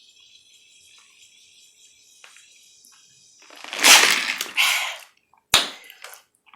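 Drinking from a glass of water: faint sipping at first, then a loud breathy rush of breath into the microphone in two parts after the swallow, and a sharp knock as the glass is set down on the table.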